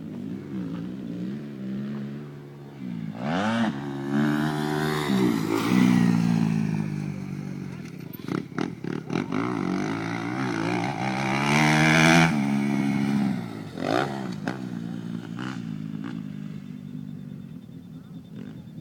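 Motocross motorcycle engines revving up and down through the throttle as bikes pass, loudest about six and twelve seconds in, with a few sharp clicks in between.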